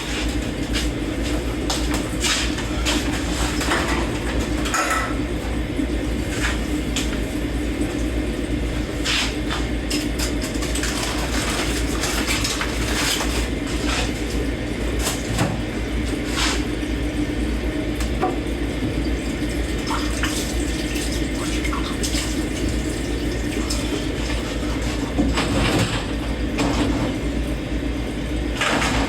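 Dishes being washed by hand in a kitchen sink: tap water running steadily, with frequent short clinks of plates and cutlery knocking together.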